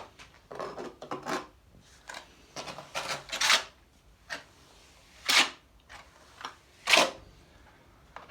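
A trowel spreading and scraping tile adhesive on a dry cement plinth: a run of separate scraping strokes, the loudest about halfway through and again near the end.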